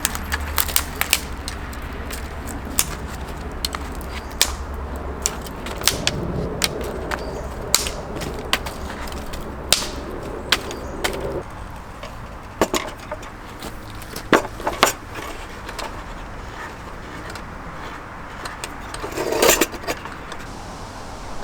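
Irregular sharp clicks and knocks, as of hard objects being handled and set down, with a louder clatter near the end and a low steady rumble in the first few seconds.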